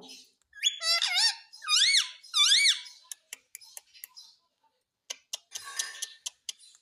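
Pet parrot making a series of shrill, squeaky whistled calls, each rising and falling in pitch, about four in the first three seconds. These are followed by a run of sharp clicks and scratchy noises, and another call starts right at the end.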